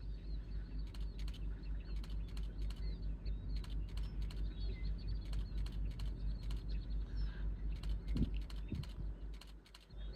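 A low rumble pulsing about four to five times a second, with scattered sharp clicks and faint high bird chirps over it; the rumble dips briefly near the end.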